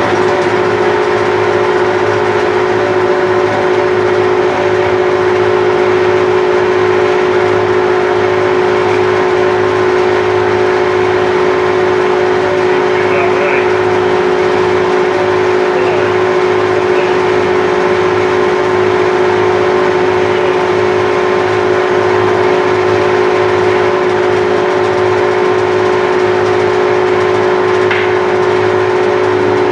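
Bandsaw running steadily as its blade cuts through a wooden post, a constant machine hum with one strong steady tone.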